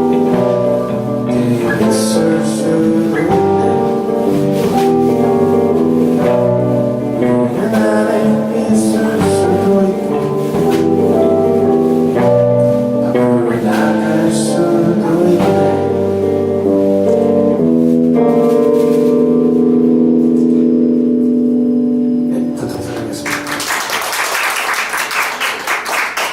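Live band with guitar playing the end of a song and closing on a long held chord. The audience starts applauding a little over 20 seconds in.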